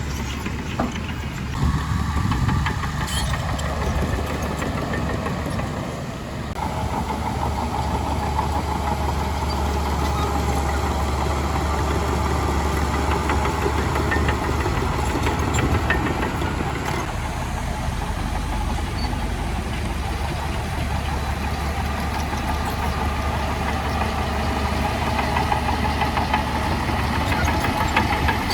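Heavy diesel earthmoving machinery running steadily, with a higher whine joining the engine drone about six seconds in.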